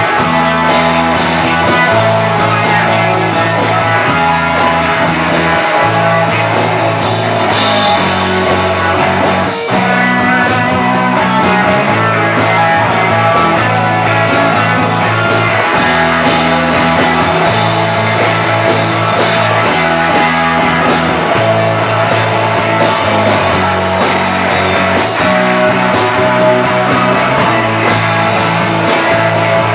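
Rock band playing live: electric guitars and drum kit, loud and steady, with low notes stepping every second or two and a brief drop about ten seconds in.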